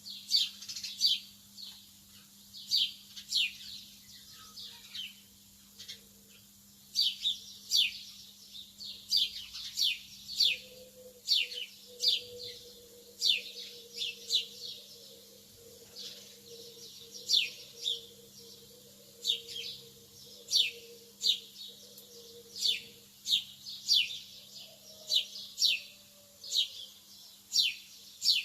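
Pet lovebirds chirping: short, sharp, high calls that drop in pitch, often in quick runs of two or three, repeated about every second, with a steady low hum underneath.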